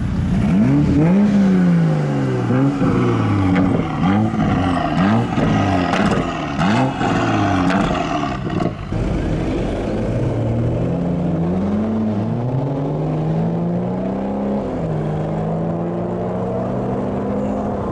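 Car engine being revved repeatedly in quick blips, about one a second, with sharp cracks among the revs; after that it rises more slowly a couple of times and holds a steadier, higher note.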